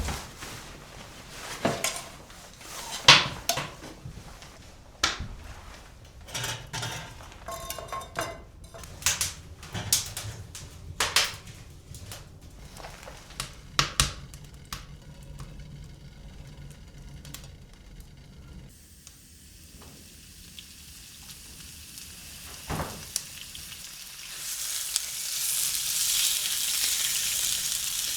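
A run of scattered clicks and knocks of things being handled, then a steady high hiss that comes in about 24 seconds in and is the loudest part.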